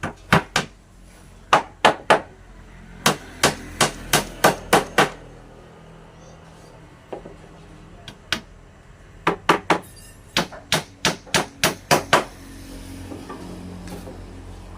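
Hammer blows on wood, struck in several quick runs of about three or four sharp hits a second, with pauses between the runs and a single blow near the middle.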